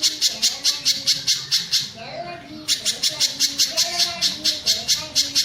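A mountain spiderhunter (pijantung gunung) calling in a rapid run of sharp, high chips, about five a second. The run breaks off for about half a second a little past the middle and then starts again.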